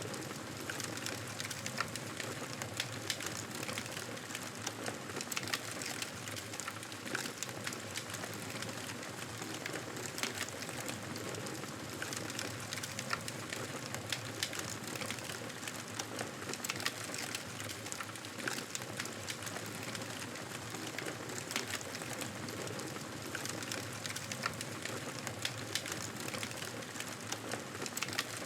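Wood fire crackling steadily: a constant hiss peppered with many small, sharp pops and snaps.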